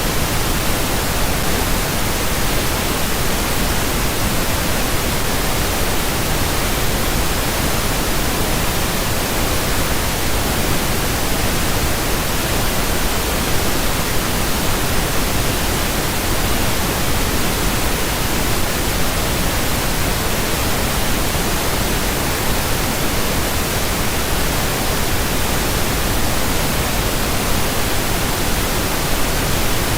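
Steady, unvarying pink noise, an even hiss spread across all pitches.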